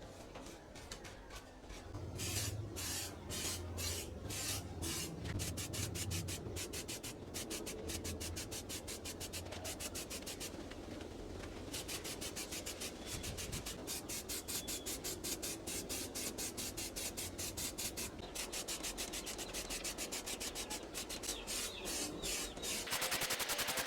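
Fast, regular back-and-forth scraping strokes of a hand tool working a piece, several a second, starting about two seconds in, with a brief pause near the middle.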